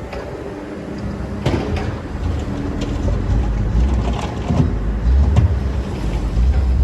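Excavator's diesel engine running under load, its low drone growing louder in the second half. Several sharp knocks from the digging sound over it.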